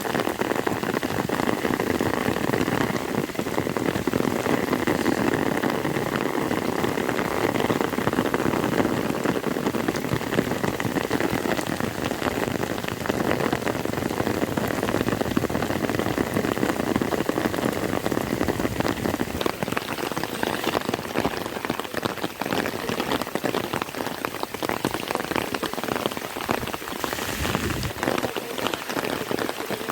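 Rain falling steadily, a dense unbroken patter of drops on surfaces.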